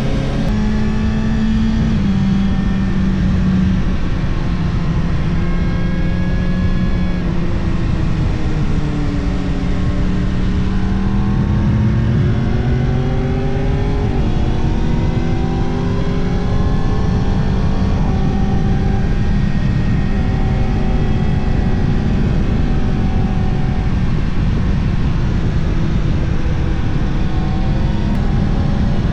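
Yamaha R1 inline-four motorcycle engine running under way, with heavy wind noise on the microphone. The engine note holds mostly steady, sags about a third of the way in, then climbs again.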